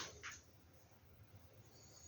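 Near silence: faint room tone, after a brief soft rustle that fades out at the very start.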